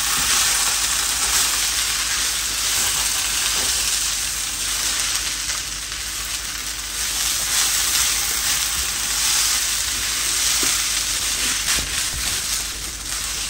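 Rice and mutton for Afghani pulao sizzling steadily in oil in a round electric skillet while a plastic spatula stirs and turns it through.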